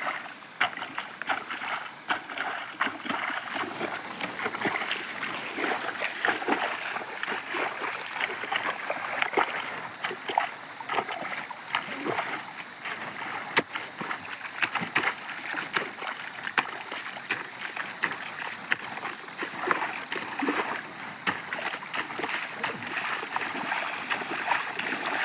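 Water and wet mud splashing continuously in a flooded paddy field, a dense run of small irregular splashes and drips over a steady watery hiss.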